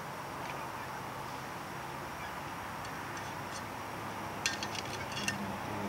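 Quiet steady background hum, with a quick run of light clicks about four and a half seconds in as motorcycle exhaust parts and tools are handled.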